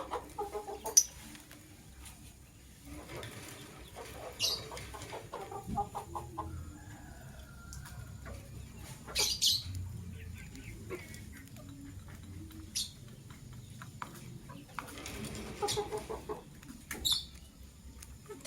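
Lovebirds calling: short, shrill chirps every few seconds, with lower, throatier chattering calls in between.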